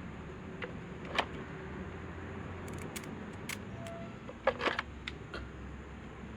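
Scattered light clicks and clinks of small metal parts and tools being handled during an electric fan repair, loudest in a short cluster about four and a half seconds in, over a steady low hum.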